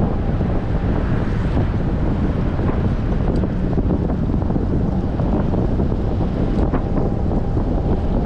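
Wind buffeting an action camera's microphone while cycling, a steady loud low rumble.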